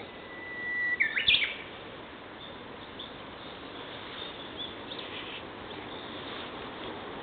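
Japanese bush warbler singing its song once: a long, steady whistle that swells in loudness, then a quick jumping flourish. Fainter high bird chirps follow.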